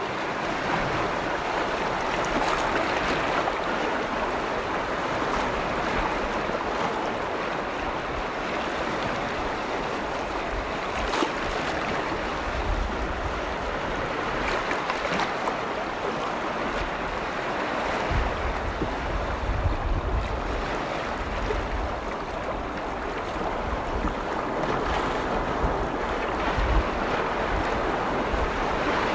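Small lake waves washing steadily against the shore of Lake Vänern, with low rumbles of wind on the microphone now and then.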